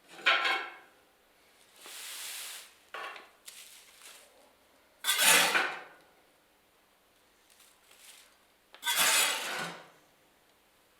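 Metal tool scraping and clanking against the inside of a pellet stove in several separate bursts, as ash and soot deposits are scraped out.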